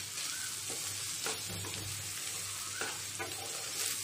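Garlic prawns sizzling in oil in a nonstick frying pan, their own juices cooked off, while a wooden spatula stirs them. A few short scrapes and taps of the spatula sound against the pan over the steady sizzle.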